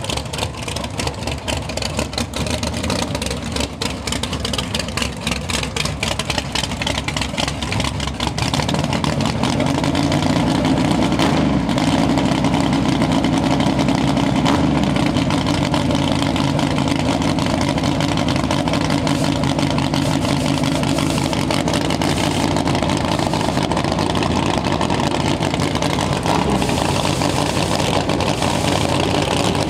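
Drag race car engines running in the staging lanes, at first with a choppy, lumpy idle; about eight seconds in, a louder, steadier engine note comes in and holds.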